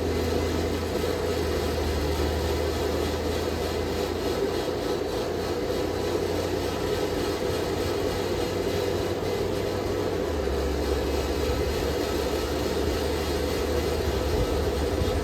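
Forge running: a steady rushing noise over a low hum, with no hammer blows. The hum shifts about ten seconds in.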